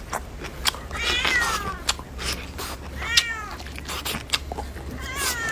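A cat meowing three times, each meow a high call that rises and then falls, with scattered short clicks between the calls.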